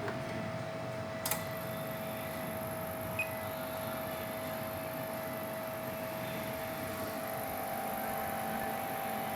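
A steady electrical hum with a fixed whine, and one sharp click about a second in.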